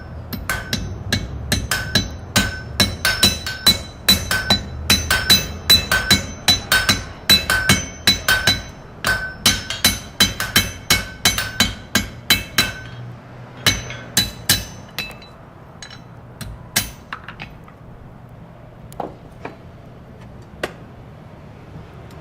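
Blacksmith's hammer striking on an anvil: a steady run of ringing blows, about two to three a second, that thins out after some thirteen seconds into a few scattered strikes.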